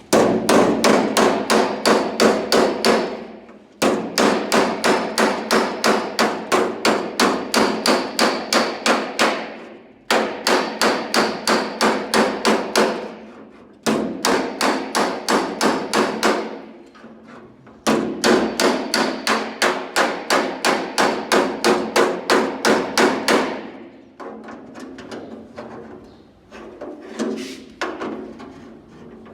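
Panel-beating hammer striking hard 20-gauge sheet steel on a car door edge in fast, even runs of about four blows a second, each blow ringing metallically. Five runs with brief pauses; the blows in the last few seconds are lighter and quieter.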